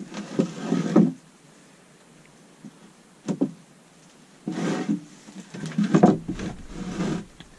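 Wooden boards being handled and set in place. Wood scrapes and knocks on wood in several bursts, with a single knock between them.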